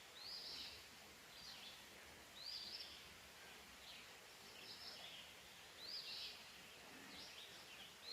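Faint songbird calling: short, high chirped phrases repeated roughly once a second, over quiet outdoor background noise.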